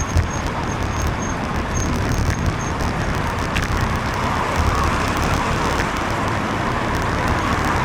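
Wind buffeting the microphone of a cyclist's camera, with the steady hiss of traffic on a wet road in the rain.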